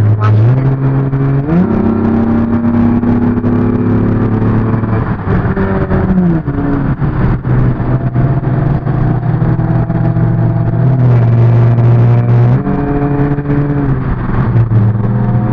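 Car engine heard from inside the cabin while driving, its pitch stepping up as it accelerates and dropping back as it eases off or shifts, twice over.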